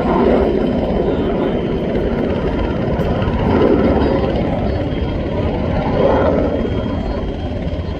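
Aircraft engine noise from a display aircraft, a steady rumble that swells and eases a few times as it moves around.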